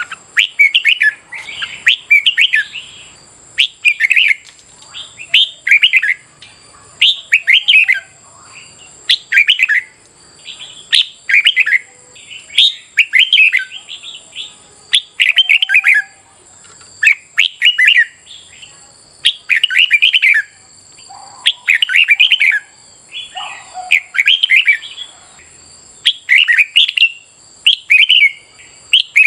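Red-whiskered bulbul song: loud, short, clear warbling phrases repeated every second or two, the competitive 'fighting' song used to train and rouse caged bulbuls. A faint steady high whine runs underneath.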